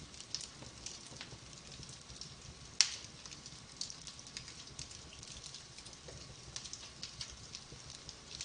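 Wood fire burning in a fireplace, crackling with frequent small sharp pops and one loud pop about three seconds in.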